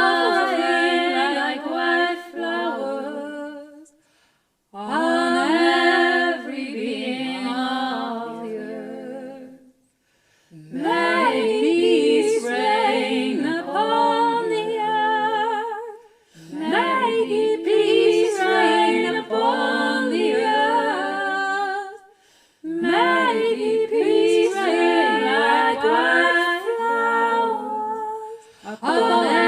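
Four-part a cappella vocal harmony chant sung without words, in five phrases of about five to six seconds, each followed by a brief pause for breath.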